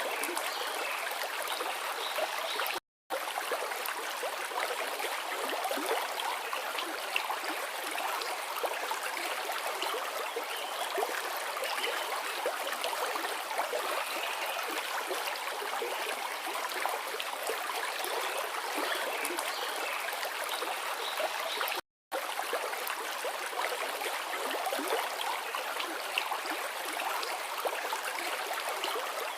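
Forest river flowing steadily, a continuous rushing and gurgling of water over rocks. The sound cuts out completely for a split second twice, about 3 seconds and 22 seconds in.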